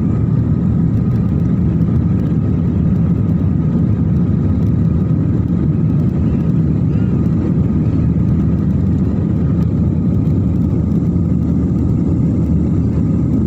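Steady, loud low rumble of a jet airliner cabin in flight: engine drone and airflow noise, unchanging throughout.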